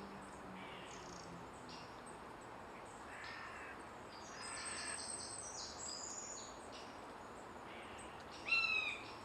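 Wild birds calling in woodland: fainter high chirps of small birds around the middle, then two loud, short calls about a second apart near the end.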